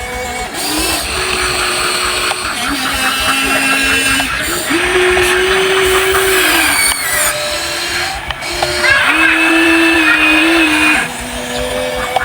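Small electric motors of a Huina 1593 RC excavator whining as it digs and moves soil, the pitch stepping up and down every second or two as the motors start, stop and change load.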